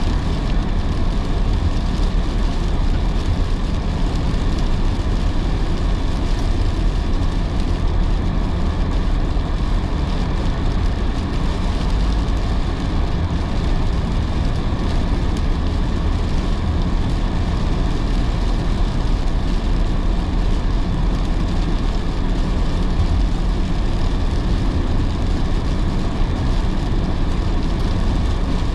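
Steady road noise of a car driving on wet roads in heavy rain: a low rumble with the hiss of tyres and rain.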